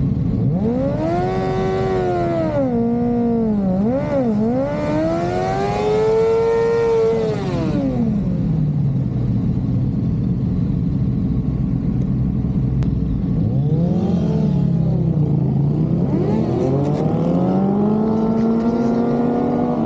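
Suzuki GSX-R750 inline-four sport bike engine revved hard and held at high revs, as in a burnout, with two quick dips in pitch, then dropping back to a low steady idle for several seconds before revving briefly and climbing steadily again near the end.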